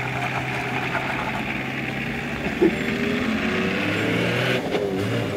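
An old four-wheel-drive SUV's engine idles steadily, then about halfway through it revs up and pulls away, the engine note rising. Near the end it dips briefly and climbs again as the vehicle gathers speed.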